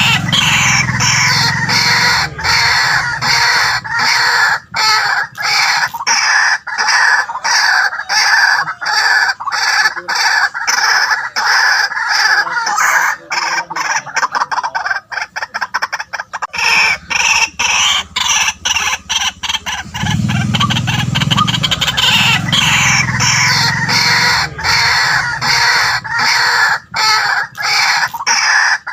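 White-breasted waterhen calling without a break: a loud, fast run of repeated harsh notes, as used to lure waterhens.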